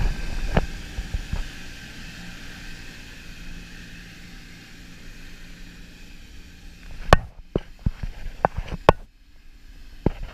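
Parasail tow boat's motor running with a steady hum that fades gradually, followed by a cluster of sharp knocks about seven to nine seconds in.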